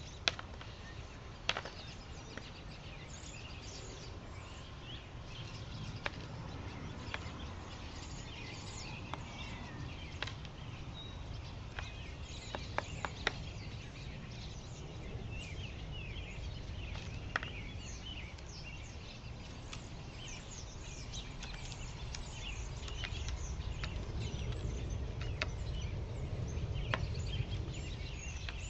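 Many small birds chirping and twittering at a backyard feeder, with scattered sharp clicks and a steady low rumble underneath.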